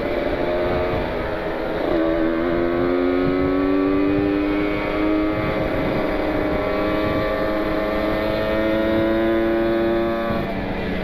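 Kawasaki Ninja 150 RR's single-cylinder two-stroke engine pulling under throttle, its pitch climbing slowly for several seconds, then dropping near the end as the throttle comes off. Wind noise rumbles on the microphone underneath.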